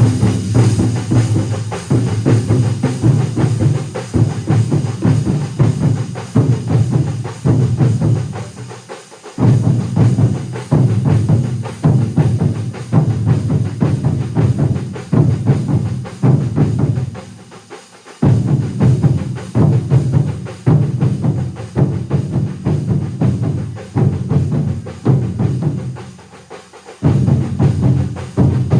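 A large massed drum ensemble playing loud, driving rhythmic patterns with heavy bass drums, in phrases that break off briefly about every nine seconds before starting again.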